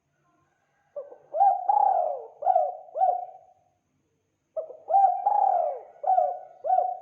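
Spotted dove cooing: two phrases of about five coos each, the phrases a second apart.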